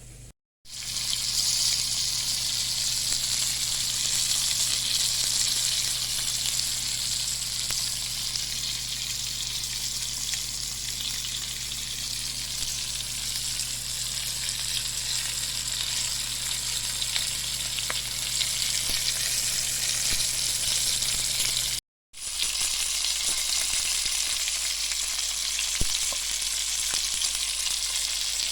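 Food sizzling and frying in a hot pan: a steady hiss that breaks off for a moment near the start and again about three-quarters of the way through.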